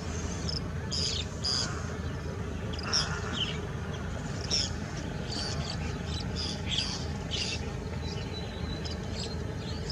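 Wetland birds calling: many short, high-pitched chirps and calls, several a second at times, over a steady low rumble.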